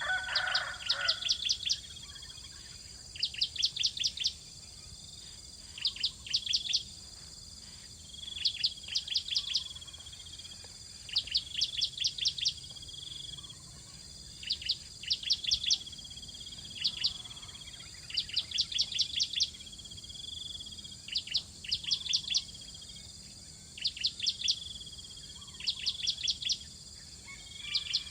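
Bar-winged prinias at the nest: quick high chirping notes in bursts of about half a dozen, repeating every two to three seconds. A steady high insect drone runs underneath.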